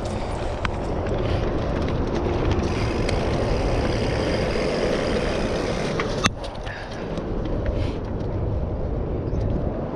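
Mountain bike riding over a dirt trail: steady rumbling tyre and wind noise with small rattles and knocks. A sharp clack comes about six seconds in, and the noise runs quieter for a moment after it.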